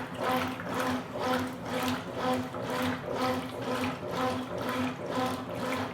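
Consul Super Cargo 8 kg top-loading washing machine agitating a load of towels: water sloshing with each back-and-forth stroke of the agitator, about two strokes a second, with the motor hum pulsing along. The load is rolling over well in the water.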